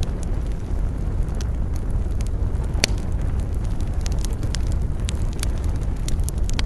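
Wood campfire burning, crackling with irregular sharp pops over a steady low rumble; one louder pop about three seconds in.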